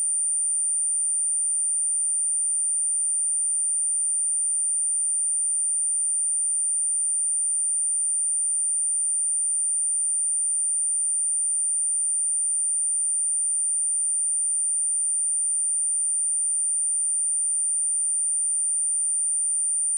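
A single steady, high-pitched electronic sine tone at 9078 Hz, held without change. It is a speaker test and cleaning tone, played to shake water and dust out of a speaker.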